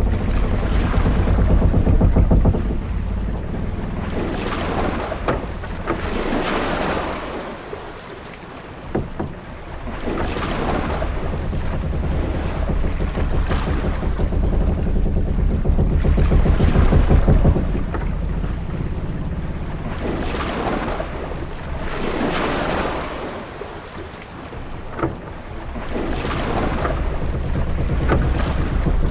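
Sailing ship at sea: waves rush and wash against the hull in swells about every three seconds over a steady low rumble of wind and sea, with a few sharp knocks.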